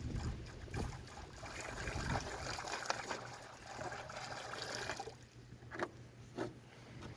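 Water trickling and splashing for about five seconds, then stopping, followed by a few light knocks.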